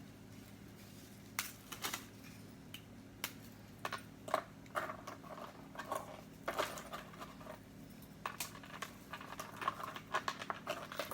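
Graham crackers being laid into a dish: scattered light clicks and taps, irregular and growing busier toward the end, over a steady low hum.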